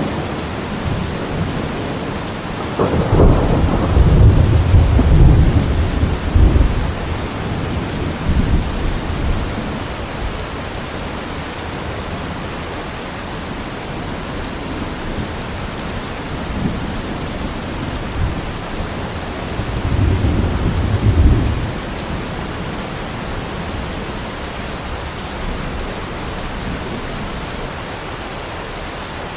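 Steady heavy rain with thunder. A loud peal breaks about three seconds in and rumbles for several seconds, a fainter rumble follows, and a second loud rumble comes about twenty seconds in.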